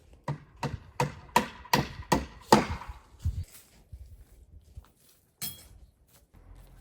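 Chopping on a cutting board: about seven quick strikes with a slight ring, then a single strike near the end.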